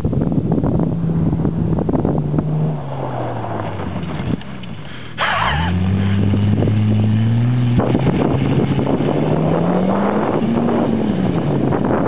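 A 1994 Mercury Cougar's engine, revved hard while the car slides sideways through a dirt J-turn. The note falls and dips at first; about five seconds in it revs up suddenly with the wheels spinning in loose dirt, then climbs in two long rises, dropping once partway and falling again near the end. Wind buffets the microphone.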